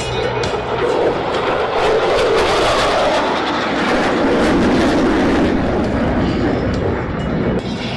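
Jet roar of Blue Angels F/A-18 Super Hornets making a low pass. The roar builds, then falls steadily in pitch as the jets go by, and eases off near the end.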